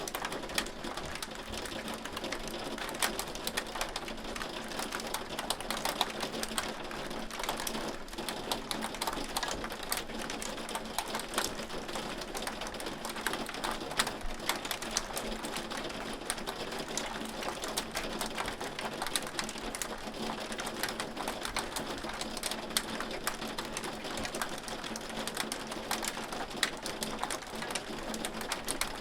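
Hail falling: a dense, steady clatter of small sharp hits, with a few louder ones standing out.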